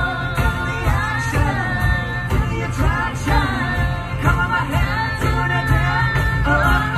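A live band playing an amplified pop-rock song: a lead voice singing over heavy bass and a steady drum beat.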